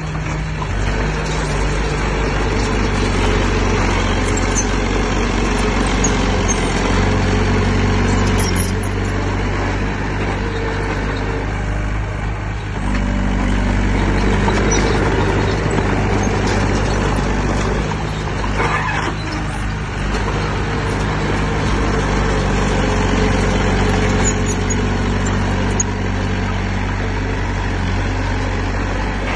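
Heavy diesel engine of earthmoving machinery running, its pitch and load shifting several times as it works.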